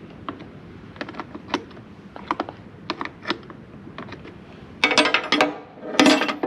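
Hand tools working on a truck's battery terminals: scattered metal clicks and taps, then two louder bursts of rapid clicking and clattering near the end.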